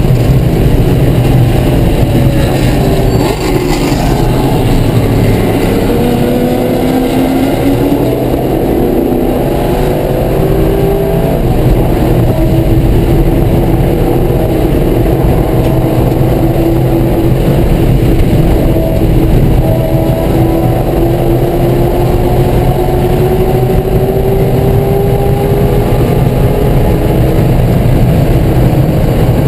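Chevrolet Corvette C5 Z06's V8 race engine heard from inside the stripped cabin, running hard at speed. Its pitch falls a few seconds in, then climbs slowly and steadily for most of the time as the car accelerates.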